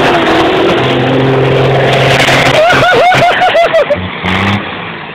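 M35 deuce-and-a-half army truck driven hard over rough dirt, its engine running loud under heavy rumble and rattle. A wavering, warbling sound rises and falls quickly for about a second midway, then the noise drops away and fades near the end.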